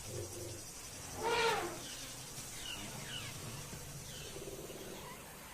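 Wildlife ambience: one drawn-out animal call about a second in, its pitch rising and then falling, followed by several faint short high chirps.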